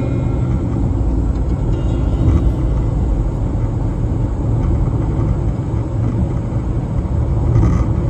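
Steady low rumble of a car driving along a highway, engine and road noise.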